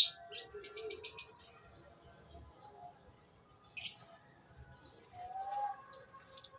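Lovebirds in a colony chirping: short shrill calls, a quick run of them about a second in, then single calls spaced a couple of seconds apart.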